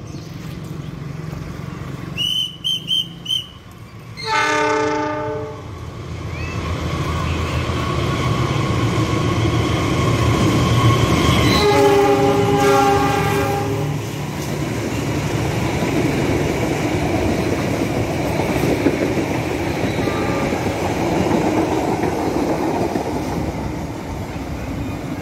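A diesel-electric locomotive hauling a passenger train sounds its multi-note horn about four seconds in, and again for about two seconds as it passes, over the rumble and wheel clatter of the train going by. A few short high beeps come just before the first horn.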